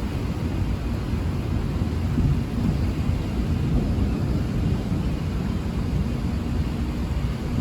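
Rolling thunder: a steady low rumble that drags on without a sharp crack.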